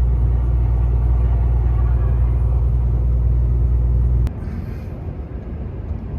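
Volvo truck's diesel engine pulling hard under load in tenth gear up a long grade, a loud steady low rumble heard from the cab. About four seconds in there is a sharp click and the rumble drops suddenly to a quieter, lighter drone.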